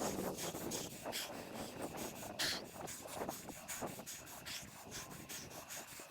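Wind and road noise from a bicycle ride: a steady rush with many small clicks and rattles, and a brief hiss about two and a half seconds in. It ends on a short, sharp squeak that falls in pitch.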